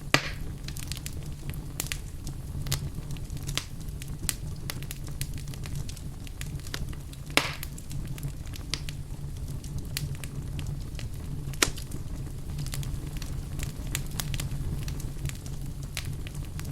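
Wood fire in a fireplace crackling over a steady low rumble of the flames, with scattered small ticks and a few sharper pops, at the start, midway and about twelve seconds in.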